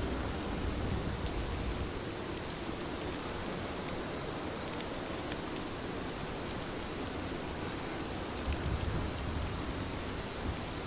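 Heavy rain falling steadily, a dense even hiss dotted with fine drop ticks, with low swells of rumble about a second in and again around eight seconds in.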